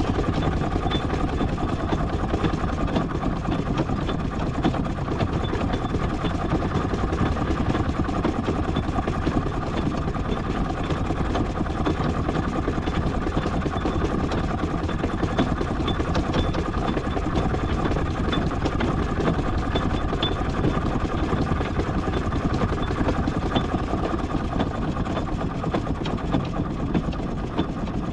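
Miniature steam traction engine running steadily, crawling along in low gear.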